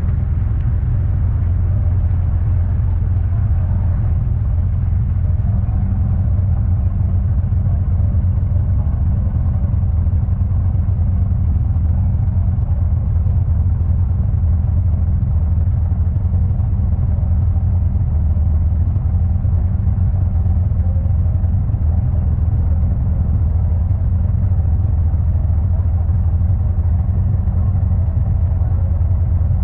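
Four-cylinder engine of an MGA race car running at a fairly steady pitch, heard onboard as a loud, deep drone with little rise or fall in revs.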